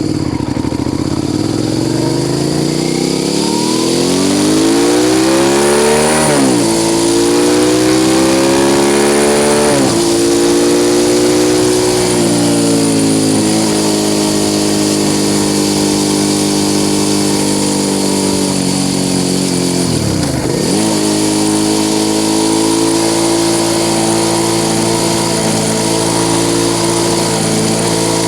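Suzuki SV650 S V-twin through an aftermarket Mivv exhaust, restricted to 48 PS, heard onboard while riding. The engine note rises under acceleration and drops sharply at two gear changes, about six and ten seconds in, then holds a nearly steady cruising note, briefly dipping and picking up again about twenty seconds in.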